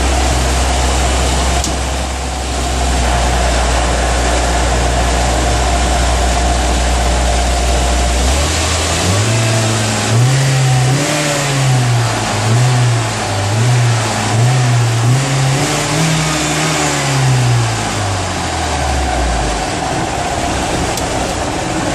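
The ZMZ-406 four-cylinder petrol engine of a Moskva-2 boat with a new muffler, idling steadily. About eight seconds in it is revved in several quick blips of throttle, then it drops back to idle near the end.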